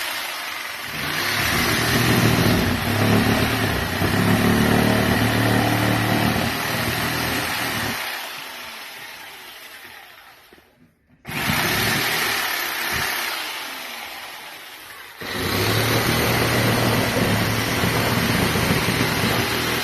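Electric jigsaw cutting a dryer-vent hole through a house wall, the motor and blade running with a harsh rasp. About ten seconds in the cut stops and starts again abruptly, eases off for a few seconds, then runs hard again.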